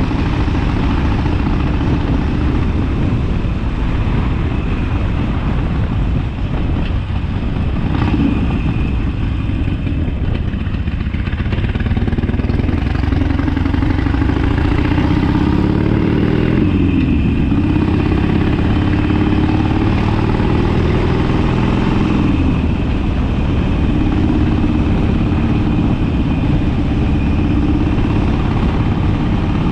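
Harley-Davidson Sportster V-twin engine running under way on the road. Its pitch climbs as it accelerates, drops sharply at a gear change about halfway through, then climbs again.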